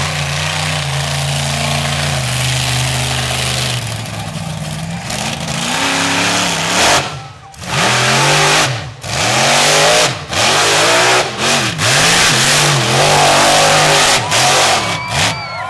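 Monster truck engine running steadily for a few seconds, then revved hard over and over, its pitch rising and falling with each blip of the throttle and the sound dropping away briefly between revs.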